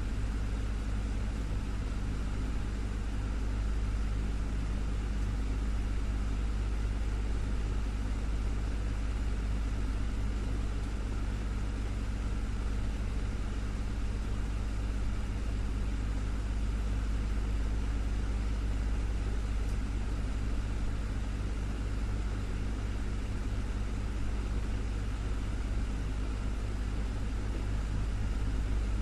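Desktop fan running steadily: a constant low motor hum with the even whoosh of moving air.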